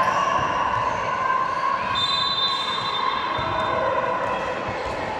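Spectators' voices mingling at a football match, a steady background murmur, with a faint steady high tone about two seconds in that lasts about a second and a half.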